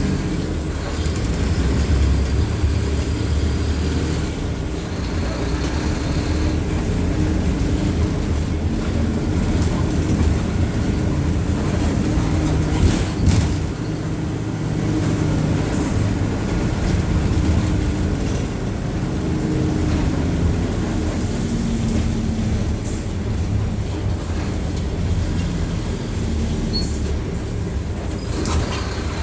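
Mercedes-Benz OF-1519 BlueTec 5 bus's diesel engine running while under way, its pitch slowly rising and falling with speed. A few short clicks and rattles come through.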